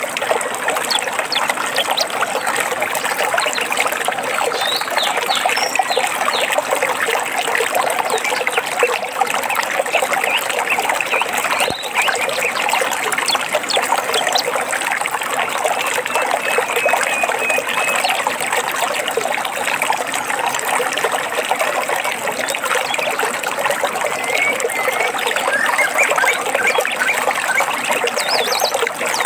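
Small stream trickling and babbling steadily, with a few faint, brief bird chirps now and then.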